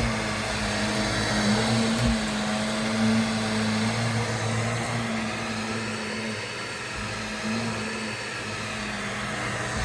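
Vacuum cleaner motor running steadily with a constant hum, a little quieter in the second half.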